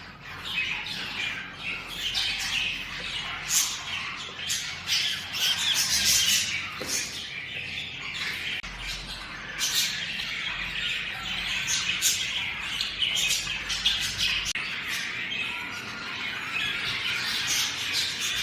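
Budgerigars chattering, with many short squawks and chirps overlapping one another.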